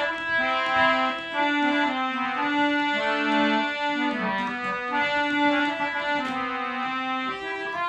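Instrumental interlude of a Hindi song: a synthesizer keyboard playing a melody in held notes over a steady accompaniment.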